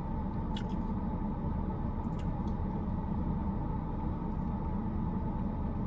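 Steady low rumble inside a stationary car, with a faint steady hum and a few small ticks.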